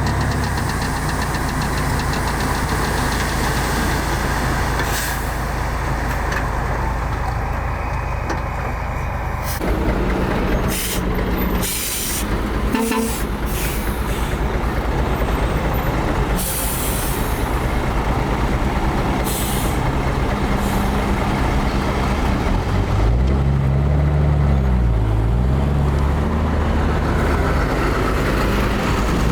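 Heavy diesel dump truck engine running, with several short air-brake hisses and the engine pitch falling and then rising again about three-quarters of the way through.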